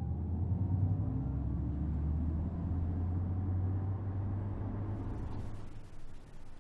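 Audi e-tron GT's AVAS pedestrian-warning sound, a low synthetic hum, fading out as the electric car moves away and dying out about five to six seconds in.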